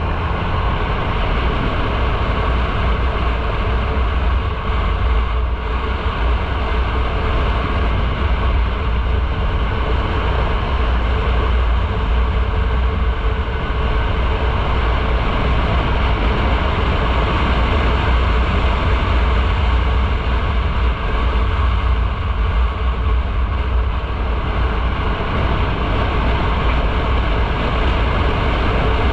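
Motorcycle riding at a steady pace: a steady low rumble of wind buffeting the microphone, with road and engine noise under it.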